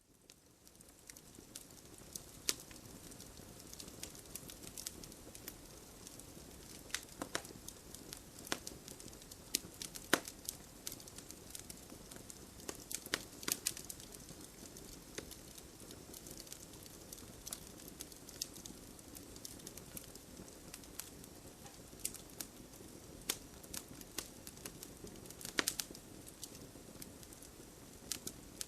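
Campfire crackling: irregular sharp pops and snaps over a low steady hiss, fading in over the first two seconds.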